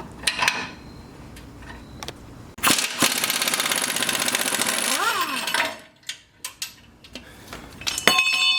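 Pneumatic impact wrench hammering fast and loud for about three seconds, starting a few seconds in, while removing suspension bolts. A few metallic clicks and clinks of bolts and tools come before it, and ringing metal near the end.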